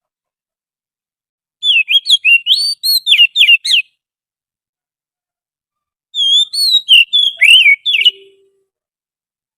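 Oriental magpie-robin song: two phrases of rapid, sweeping whistled notes, the second starting a couple of seconds after the first ends.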